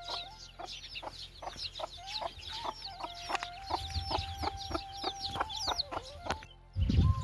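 Domestic chickens: a hen clucking in a steady rhythm, about three clucks a second, with many high chirping calls over it. The sound cuts off abruptly near the end.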